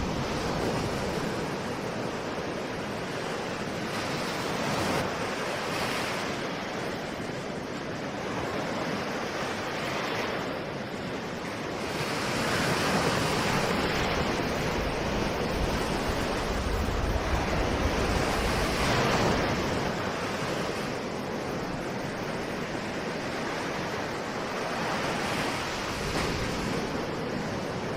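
Ocean waves breaking and washing in, with a new surge every few seconds over a constant rush of surf, and some low wind rumble on the microphone.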